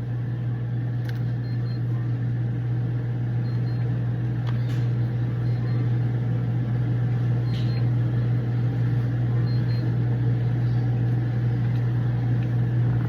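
A steady low hum of an idling car engine heard inside the car, with a few faint brief clicks.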